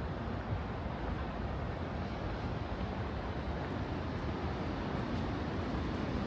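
Steady low rumble of city background noise, like distant traffic, with no distinct events.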